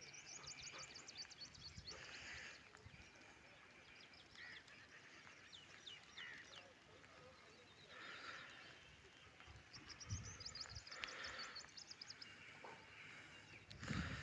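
Faint birdsong: a rapid high trill of many short notes near the start and again about two-thirds of the way through, with scattered other chirps over a low background hiss.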